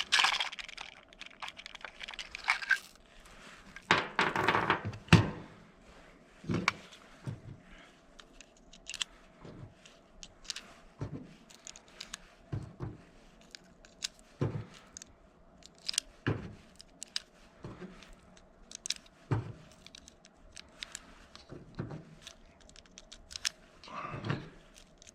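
Small clicks of .22 LR cartridges being pressed one at a time into a Glock 44 magazine, about one click a second, with light handling noise between them.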